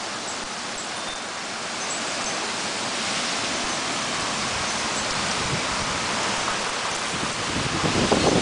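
Steady rush of heavy rain and wind in a severe thunderstorm, growing a little louder, with gusts buffeting the microphone near the end.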